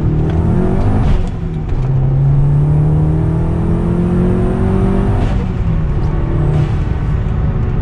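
Big-turbo 2010 VW GTI (Mk6, 2.0-litre turbo four with a Garrett GT3071R turbo) accelerating hard through the gears, heard from inside the cabin. The engine note climbs, drops at an upshift about a second in, climbs again for about four seconds, and drops at another upshift about five seconds in.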